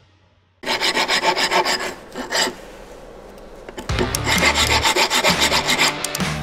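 Ratchet wrench turning bolts on a rotary engine: two spells of rapid, even clicking, the first about a second in and lasting a second and a half, the second from about four seconds in lasting two seconds.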